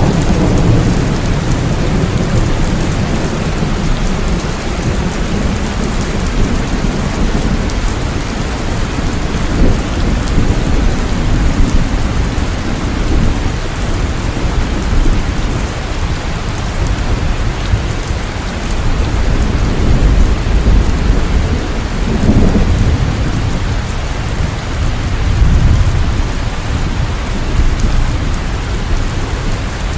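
Steady rain falling, with low rolling thunder swelling and fading several times underneath it.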